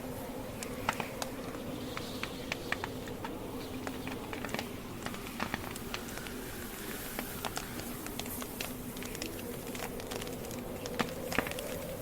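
Wood campfire crackling, its burning logs giving irregular sharp pops and snaps, several a second, over a steady low hum.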